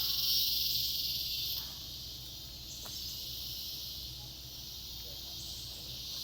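Steady, high-pitched rainforest insect chorus, louder for about the first second and a half and then settling lower. A single faint click about three seconds in.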